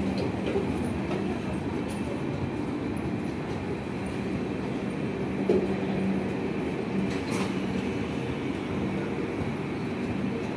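Air-conditioned LHB passenger coaches of an Indian Railways express rolling slowly past: a steady rumble of wheels on rail with a low hum running under it, and a single sharp clank about five and a half seconds in.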